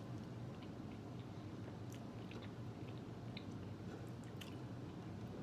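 A person chewing boiled meat close to the microphone: faint, scattered small wet clicks and smacks over a steady low hum.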